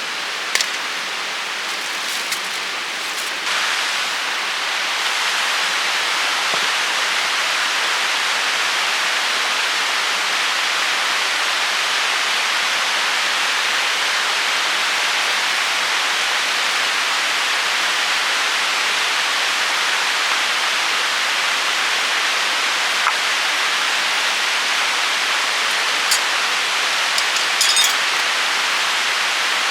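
A steady, even hiss like rain or rushing water, growing a little louder a few seconds in, with a few faint sharp clicks near the start and again near the end.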